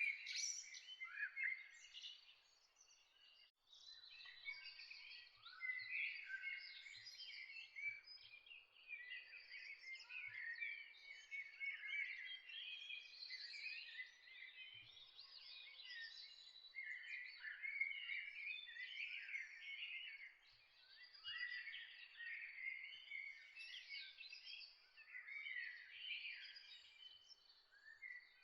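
Several songbirds chirping and singing at once in a dawn chorus, short overlapping calls and trills that rise and fall in pitch, almost without a break.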